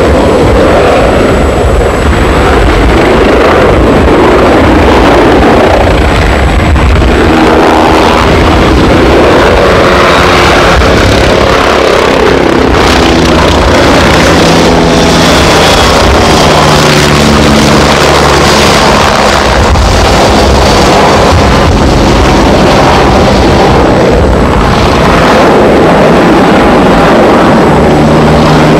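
Helicopter flying an aerobatic display: loud rotor and engine noise held at an even level, its pitch shifting up and down as the helicopter manoeuvres.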